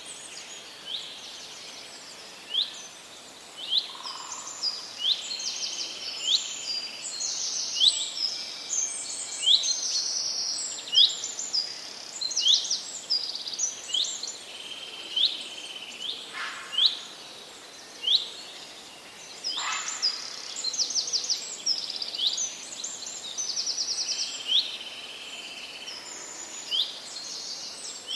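Parrots chirping: a steady stream of short, sharp high chirps and quick trills, often overlapping, with a few louder calls.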